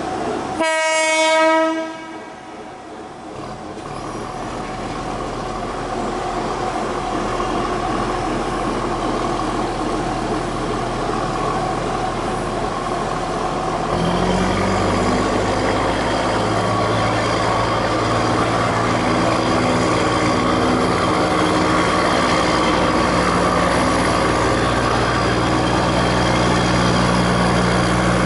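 Seino Railway DD403 diesel locomotive gives one short horn blast as its departure signal, then its engine runs as it pulls away with its freight train; about halfway through the engine throttles up and grows louder.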